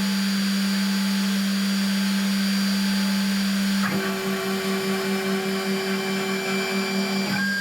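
Spindle of a SainSMART Genmitsu PROVerXL 6050 Plus CNC router running at speed with a steady whine, just spun up to begin a cut in MDF. About four seconds in, a second, higher steady whine joins and the main tone begins to waver as the machine starts moving.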